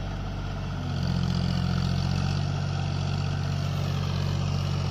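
John Deere 5050D tractor's three-cylinder diesel engine running steadily. About a second in, the engine gets louder and its note firms up, as if it has taken on more revs or load, and then holds there.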